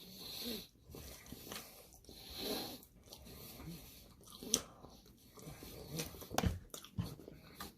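Close mouth sounds of someone chewing food, with soft breaths and a few sharp clicks, the sharpest about halfway through and again about two seconds later.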